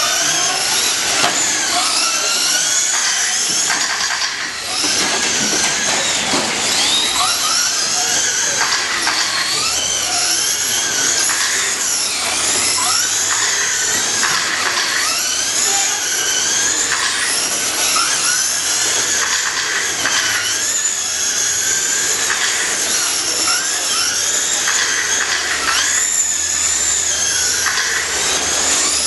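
Several electric RC short course trucks racing together. Their motors whine high, each rising and falling in pitch again and again as they speed up and slow down.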